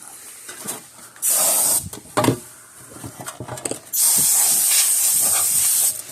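Two blasts of compressed air, a short one and then a longer one of about two seconds, blowing dust and drilled-out rivet debris out of an opened electric fence charger, with small knocks and clatters in between.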